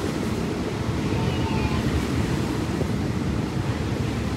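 Steady rumble of a moving passenger train heard from inside the carriage: wheels running on the rails, mixed with wind noise on the microphone.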